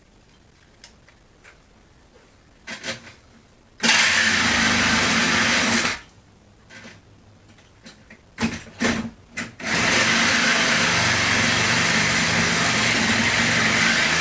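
Cordless power tool cutting into the metal cabinet of an old Whirlpool refrigerator: after a few light clicks, a two-second run about four seconds in, several short trigger pulses, then a long steady run through the second half.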